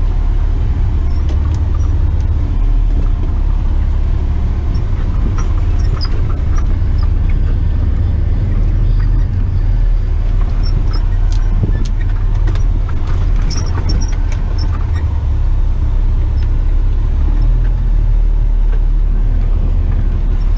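Heavy rigid tipper truck's diesel engine droning steadily as it drives empty over rough off-road ground, with scattered short rattles and clicks through the middle.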